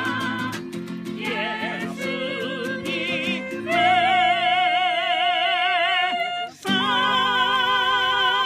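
Music: a high singing voice holding long notes with heavy vibrato, in an operatic style. It breaks off briefly near the end and then stops abruptly.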